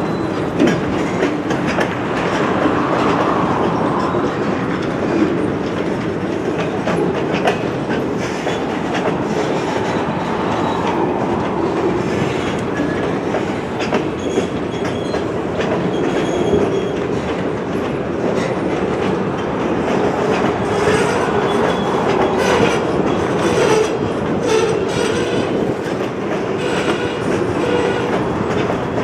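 A slow-moving string of empty steel woodchip gondola freight cars rolling past, with a steady rumble of wheels on rail and irregular clicking as wheels cross rail joints.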